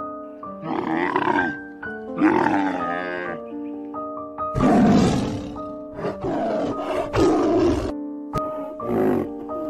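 Background music with a series of animal roars and growls laid over it, about six calls each lasting up to a second.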